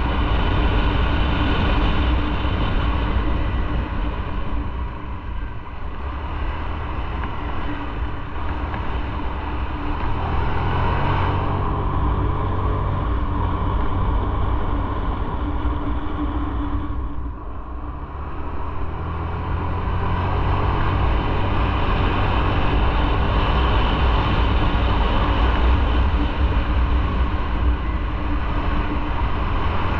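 Motorcycle engine running under way, with a steady rush of noise over it. The engine note climbs about ten seconds in, eases off briefly around seventeen seconds, then picks up and runs steadily again.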